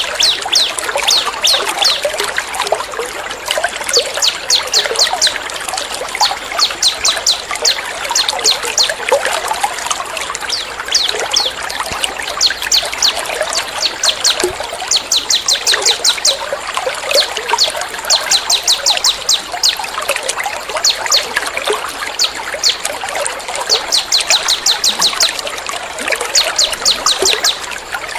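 Songbird masteran recording of rapid, high-pitched chirping trills that come in bursts of a few seconds, laid over a steady trickle of running water.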